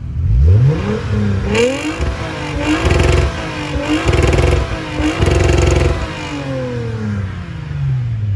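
Car engine revving: the revs climb, rise and fall four or five times about a second apart, then drop away slowly near the end.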